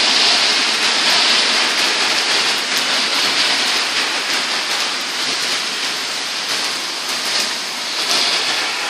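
Heavy rain pouring down: a steady, dense hiss with scattered drops spattering.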